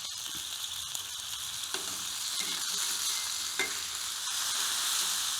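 Raw bacon sizzling on a hot griddle over a wood fire, a steady high hiss with a few faint clicks.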